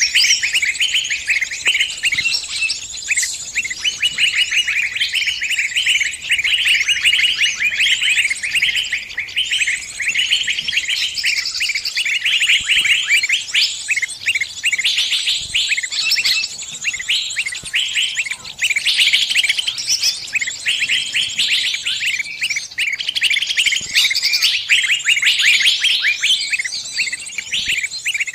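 Small birds chirping rapidly and without a break, high-pitched: the distress calls of a trapped bird.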